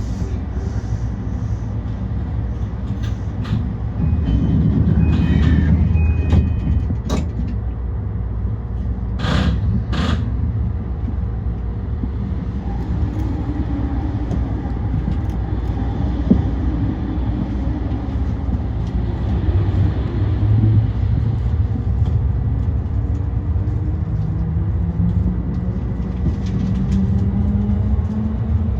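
E235-1000 series electric train running: a steady rumble of wheels on track, with two sharp clacks about nine and ten seconds in. A faint hum glides in pitch and rises toward the end.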